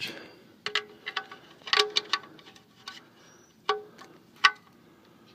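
Adjustable wrench clinking on the oil drain plug as the plug is snugged down: a handful of sharp, ringing metal clinks at uneven intervals, the loudest near the end.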